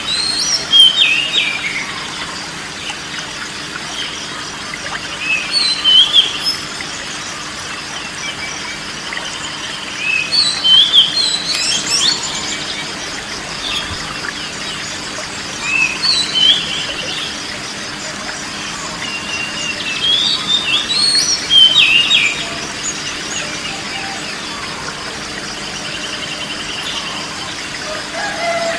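Songbirds chirping and whistling in short bursts every four to six seconds over a steady background hiss.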